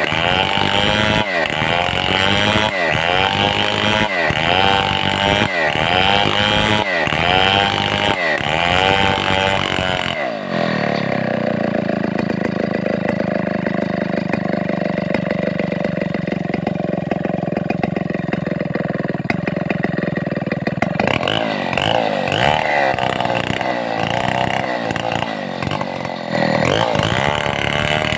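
Stihl 070 two-stroke chainsaw running hard while cutting timber into a beam. Its pitch surges and drops in a regular cycle about every second and a half, settles to a steady lower pitch for about ten seconds in the middle, then surges again near the end.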